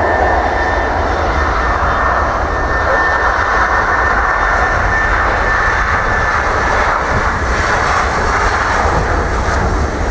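Jet airliner's engines running loud and steady, with a thin high whine that fades out about halfway through over a deep rumble.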